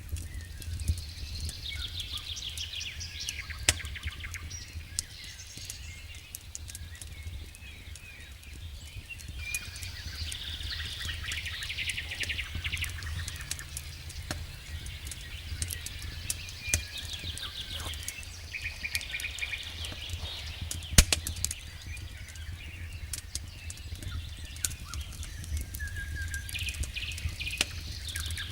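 Wood fire crackling in a fireplace, with irregular sharp pops and one louder pop about two-thirds of the way through, over a steady low rumble. Repeated high chirping trills come and go every several seconds.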